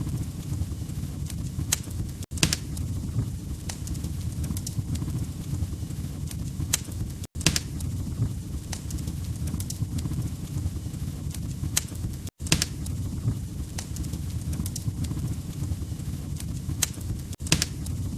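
Log fire crackling: irregular sharp pops and snaps over a steady low rumble of flames. The sound cuts out for an instant about every five seconds.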